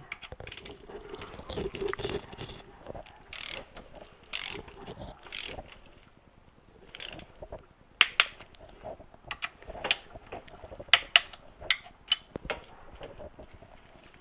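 Hand tools and small metal engine parts clicking and clinking as parts are fitted and fastened during a motorcycle engine rebuild. There is irregular handling noise early, then a run of sharp separate clicks from about eight seconds in.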